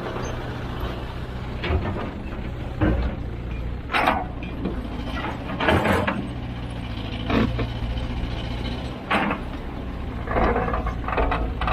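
Kobelco SK200-10 hydraulic excavator working, its diesel engine running steadily, with short metallic clanks and rattles every second or two and a denser clatter near the end.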